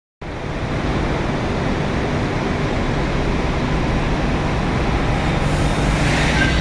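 Steady rushing noise of a subway station, with a low hum underneath, growing slightly louder toward the end.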